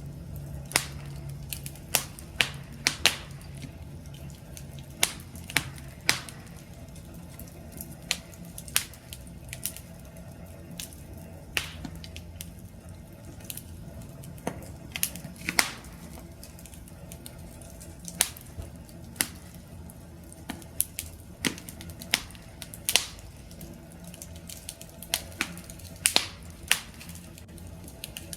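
Wood campfire crackling: irregular sharp pops and snaps scattered over a low steady rumble of burning flames.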